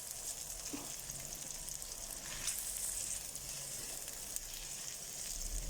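Chopped onion sizzling steadily as it fries in oil in a pan, a fine even crackle with occasional small pops.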